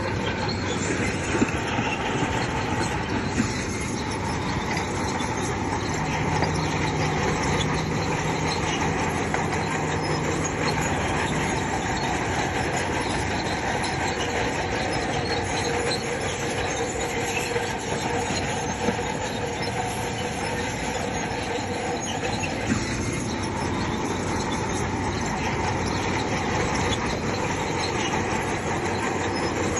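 Crawler bulldozer at work: its diesel engine running steadily under the continuous metallic grind and clank of its steel tracks, with a few small knocks.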